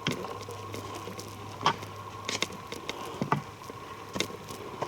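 Footsteps on a forest trail, a step roughly every second, over a faint steady low hum.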